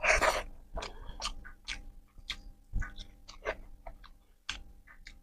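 Close-up chewing of a handful of rice and egg curry eaten by hand: irregular wet mouth clicks and smacks, with a louder burst at the very start as the food goes in.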